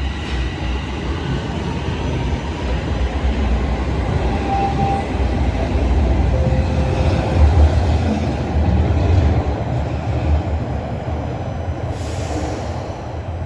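A TTC Toronto Rocket subway train pulls out of the station, running along the platform with a loud low rumble that builds to its loudest about halfway through and then eases off.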